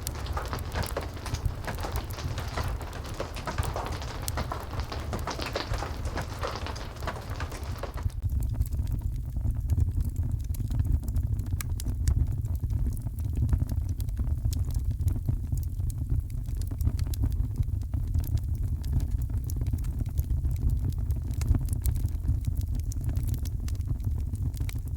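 Heavy rain hissing over a crackling fireplace, with a deep steady rumble underneath. About eight seconds in, the rain hiss drops away abruptly, leaving the low rumble and sharp, scattered fire crackles.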